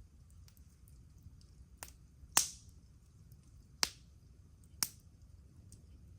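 Campfire wood crackling: four sharp pops, the loudest about two and a half seconds in, with a few fainter ticks between them.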